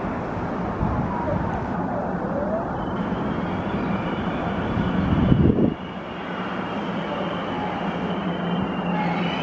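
Korail electric commuter train rolling slowly into the station: steady running noise with a low hum and thin high squealing tones from the wheels. A louder swell just after five seconds in drops off abruptly.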